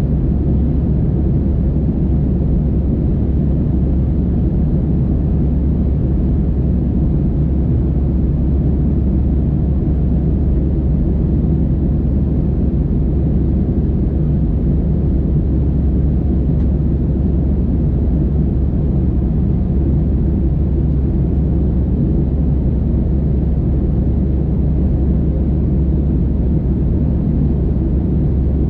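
Steady, unchanging low rumble inside the passenger cabin of an Airbus A320-216, the drone of its CFM56 engines heard from a window seat.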